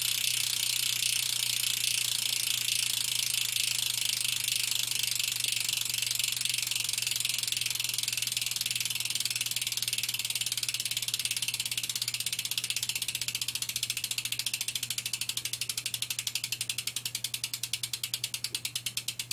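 Shadow Conspiracy BTR BMX hub freewheeling, its pawls clicking over the ratchet in a fast buzz as the wheel coasts. The clicking slows steadily as the wheel loses speed, until separate clicks can be heard near the end.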